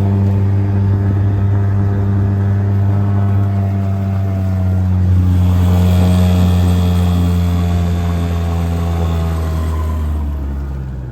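Stels 5 hp outboard motor running steadily at speed, pushing the boat along. It grows a little louder about halfway, then near the end its pitch drops and it quietens as the throttle comes back.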